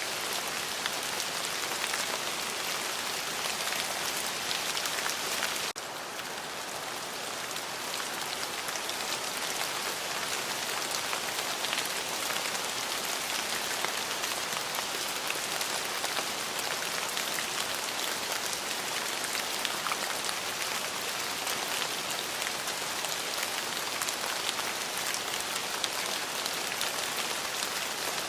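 Steady rain with a dense patter of drops striking a surface. The level dips suddenly about six seconds in, then builds back to the same steady rain.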